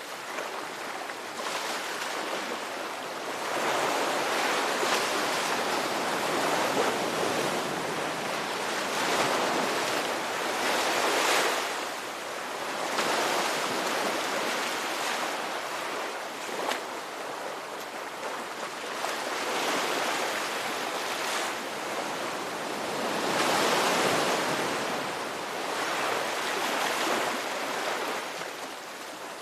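Ocean waves breaking and washing in, rising and falling in loudness every few seconds.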